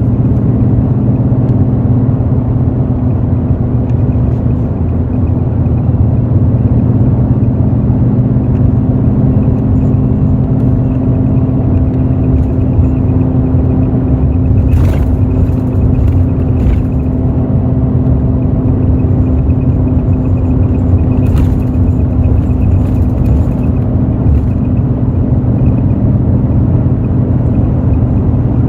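Hino J08E-VD inline-six diesel of a Hino RN8JSVU intercity bus running at a steady pitch, heard from inside the bus, with a few brief rattles about halfway through.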